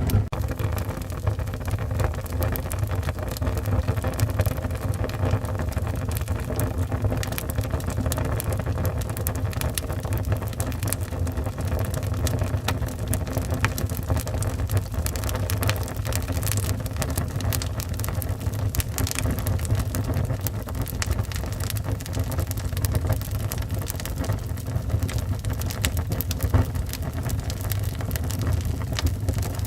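Wood fire burning in a fireplace: steady crackling with frequent small pops over a low, even rumble.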